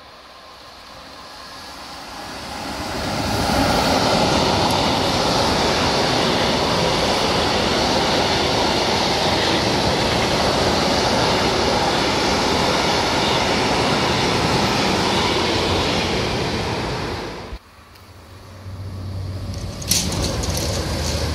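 Freight train of tank wagons, hauled by an electric locomotive, passing close on the line. Its rolling noise rises as it approaches, then holds steady and loud for about fourteen seconds as the wagons roll by. It cuts off abruptly; another train's approach then builds near the end, with a sharp click about twenty seconds in.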